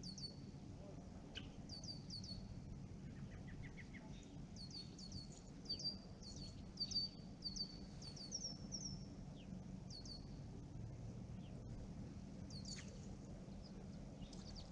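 Songbirds chirping: many short, high, downward-sweeping chirps repeated again and again, with a brief quick run of notes about four seconds in, over a steady low background hum.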